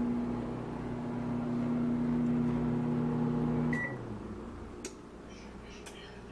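Microwave oven running with a steady hum that cuts off almost four seconds in with a short beep, followed by two sharp clicks about a second apart.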